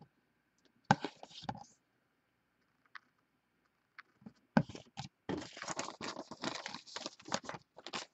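Crinkling and rustling of trading card packs and cards being handled: a short rustle about a second in, then a longer stretch of crackly crinkling from about halfway through.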